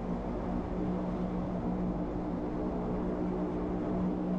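Wengernalpbahn electric rack-railway train running, heard from on board: a steady motor hum over a low rolling rumble.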